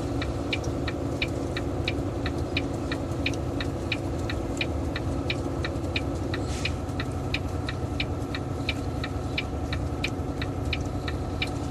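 Semi truck's diesel engine running steadily under the Jake brake (engine brake on third position) on a steep downhill grade, heard inside the cab. Over it, the hazard-flasher relay ticks evenly, about four ticks a second.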